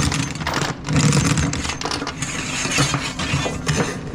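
Steel tie-down chain rattling and clinking as it is fed through the centre hole of a cable reel, over a steady engine hum.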